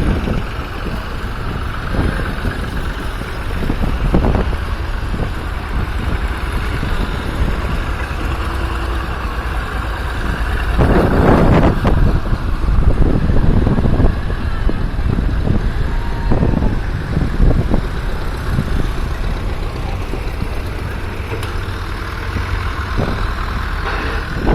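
Tractor engines running as tractors pass by, with a louder pass about eleven seconds in.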